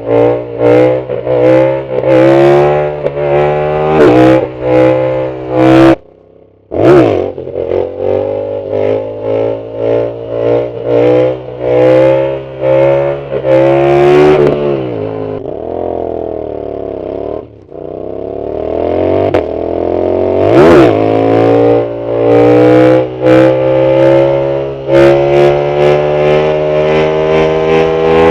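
Yamaha MT-07 CP2 parallel-twin engine through a loud aftermarket full Arrow exhaust, revving hard in rapid rise-and-drop runs as it pulls through the gears. There is a brief gap about six seconds in. Around the middle the pitch falls as the bike slows, then it accelerates hard again.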